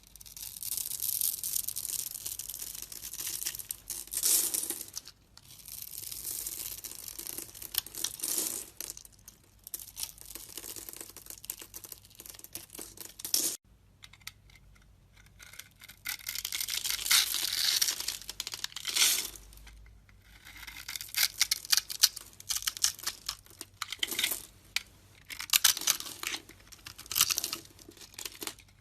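A blade carving and scraping through a bar of soap: crisp, crackly cutting strokes in runs of a second to several seconds, with brief pauses between them and a sudden break about halfway through.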